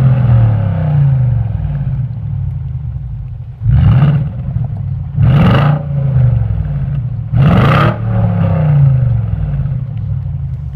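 BMW X5 engine through its exhaust, blipped three times in short sharp revs; after each one the revs fall back slowly toward idle.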